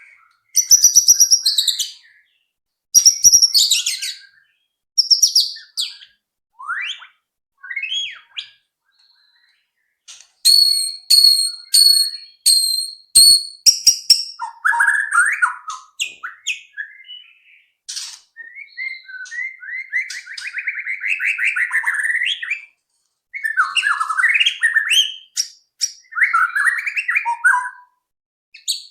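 White-rumped shama singing: a varied series of loud whistled phrases broken by short pauses, with a run of sharp repeated high notes, about two a second, around the middle and lower warbling trills later on.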